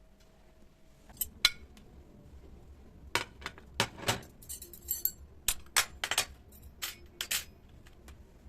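Dishes, glassware and cutlery clinking as they are handled and set down: a run of sharp, separate clinks and knocks, some in quick clusters.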